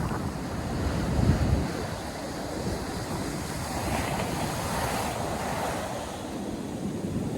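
North Sea surf breaking and washing ashore, with wind buffeting the microphone. The loudest moment is a low rumble about a second in, and a hissing wash of surf swells up around the middle.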